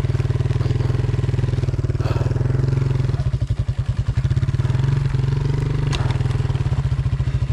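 Enduro motorcycle engine idling with a steady, evenly pulsing beat, with one short click about six seconds in.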